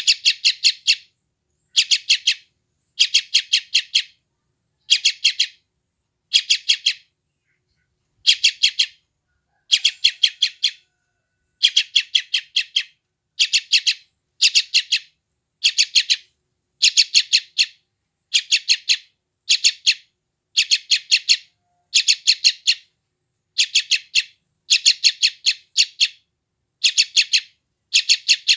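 Yellow-vented bulbul chick giving hungry begging calls: short bursts of rapid chattering notes, about one burst a second.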